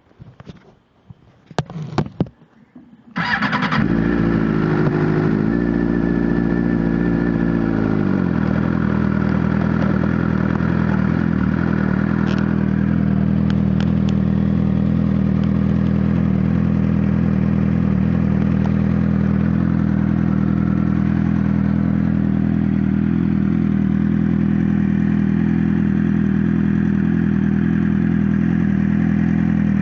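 2007 Suzuki GSX-R600's inline-four engine starting about three seconds in, after a few light clicks. It runs at a raised idle for about five seconds, then drops to a lower, steady idle.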